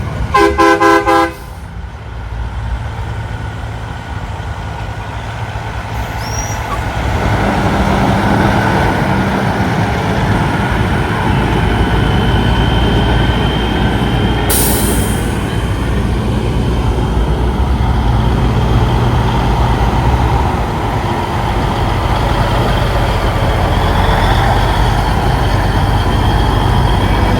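Semi-truck horn blast lasting about a second, the loudest sound here, followed by the steady low rumble of big-rig diesel engines that grows louder about seven seconds in as trucks roll past. A brief hiss comes about halfway through.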